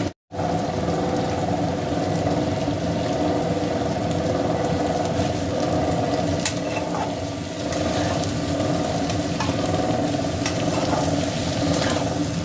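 Pointed gourd and onion frying in oil in a pan, sizzling steadily over a steady hum, with scattered small clicks of stirring. The sound drops out briefly just after the start.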